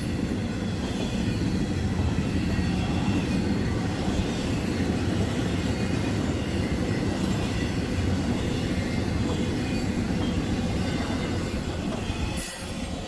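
Intermodal freight train rolling past at close range: a steady rumble of steel wheels on the rails from the passing cars. The rumble drops away about a second before the end.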